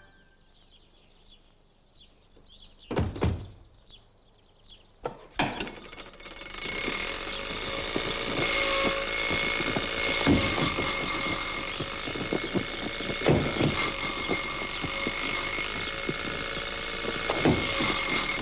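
Two heavy thumps, then an old-fashioned open car's engine starts about five seconds in and runs with a steady, rattling clatter.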